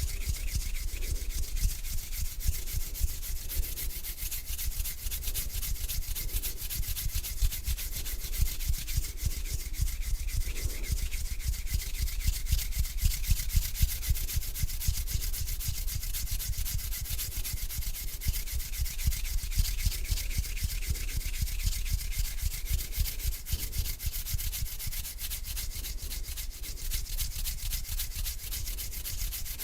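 Bare hands rubbing together close to the microphone, a continuous dry skin-on-skin swishing. It eases slightly quieter over the last few seconds.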